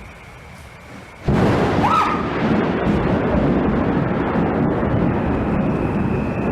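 A very close thunder clap: a sudden crack about a second in, then a loud, sustained rumble from the strike nearby.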